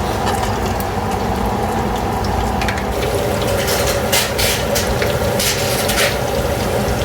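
Chicken drumsticks deep frying in hot oil: a steady loud sizzle with bursts of crackling and popping, busiest a few seconds in.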